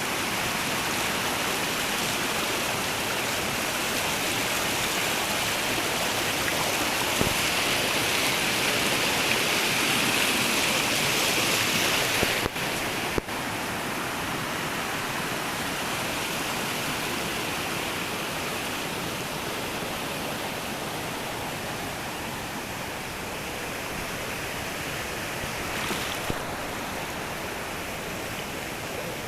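Steady rush of flowing water, with two brief dropouts about twelve seconds in.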